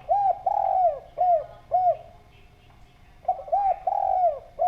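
Spotted dove (derkuku) cooing: two phrases of rounded, arching coos, one at the start and another about three seconds in.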